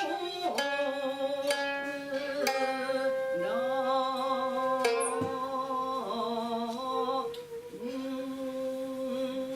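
Japanese traditional ensemble music: plucked koto notes in the first few seconds, then long held shakuhachi tones that bend into pitch.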